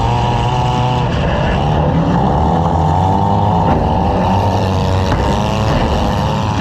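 Demolition derby car engines revving hard, the pitch rising and falling over and over on top of a steady low drone.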